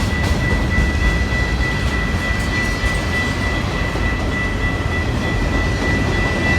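A train passing on the line: a steady, loud rumble with a constant high-pitched tone over it.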